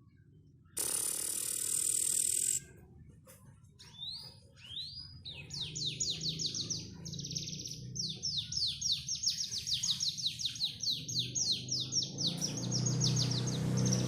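Domestic canary (pied 'panda' canary) singing: a couple of rising whistled notes, then long rapid trills of short falling notes. A burst of hiss comes about a second in, before the song, and a low hum underneath grows louder near the end.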